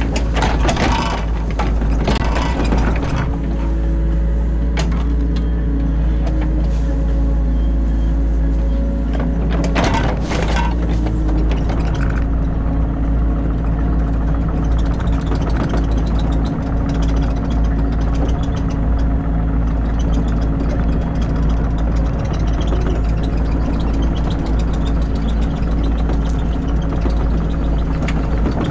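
Excavator's diesel engine running steadily, heard from inside the operator's cab, with brief louder rushes of noise about a second in and again around ten seconds in as the machine works.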